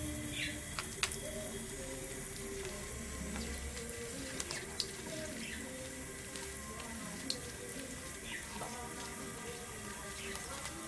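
Tap water running steadily while a budgie bathes, with a few short high chirps from the budgie.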